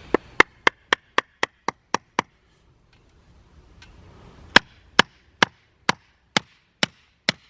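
Hammer striking wood in quick, even blows: a run of nine at about four a second, a pause of about two seconds, then a slower run of about seven blows.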